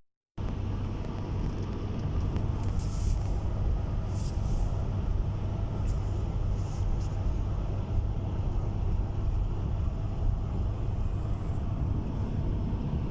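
Steady engine and road noise of a moving car, an even low rumble.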